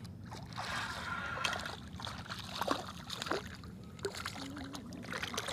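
Light water splashing and trickling at a kayak's side, with scattered small clicks and splashes, as a small hooked fish is brought up to the boat.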